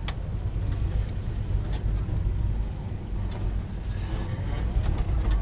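Off-road 4x4 vehicle engine running at low revs, a steady low rumble, with a few faint clicks and knocks.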